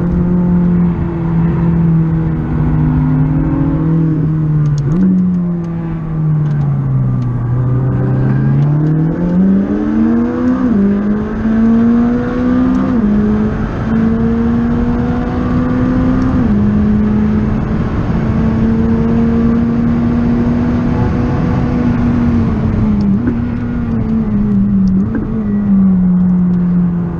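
McLaren 600LT's twin-turbo V8 heard from inside the cabin under track driving: the engine note sinks as the car slows about six to eight seconds in, climbs again under acceleration, and drops in steps at the gear changes, holding steady in between.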